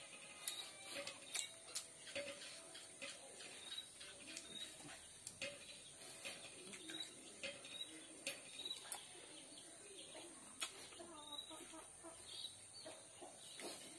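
Close-up mouth sounds of a person chewing and lip-smacking, a run of small wet clicks, with a bird chirping again and again in the background, about once a second.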